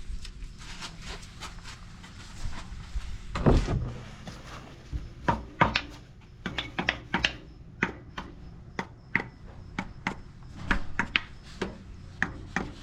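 Irregular sharp clicks and knocks from hand work on a partly dismantled engine, with one heavier thump about three and a half seconds in and the clicks coming thick and fast through the second half.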